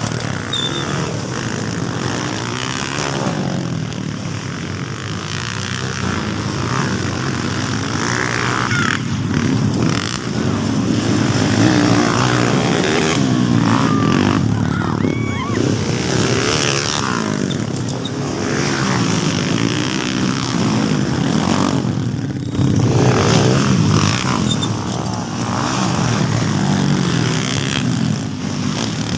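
Several motocross motorcycle engines revving up and down as the bikes race, their pitch rising and falling and overlapping.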